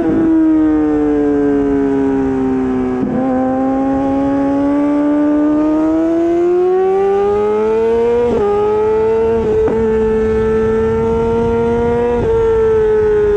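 Honda CBR600RR's inline-four engine through an Akrapovic exhaust, running at high revs under way. The pitch sinks slowly, then climbs, with a few sharp breaks in the note.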